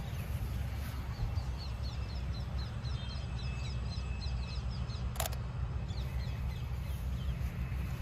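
Small birds chirping in quick runs of short high notes over a steady low rumble. A single sharp click about five seconds in is the camera's shutter firing.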